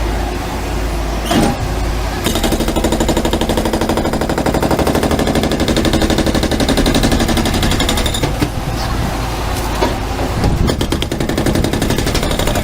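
Heavy machinery running with a loud, fast, evenly spaced pounding rattle over a low rumble. The pounding starts about two seconds in, stops about eight seconds in, and comes back briefly near the end.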